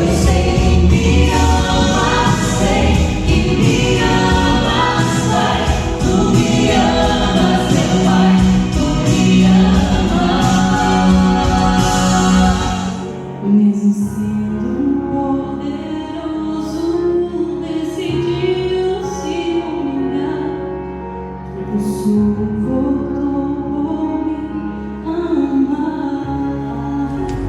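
A choir singing a Christian hymn with instrumental accompaniment. The accompaniment is full and driving at first, then thins out about halfway through, leaving the voices over a lighter backing.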